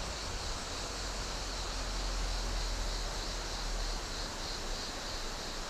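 Steady outdoor rushing noise with a low rumble that swells slightly in the middle.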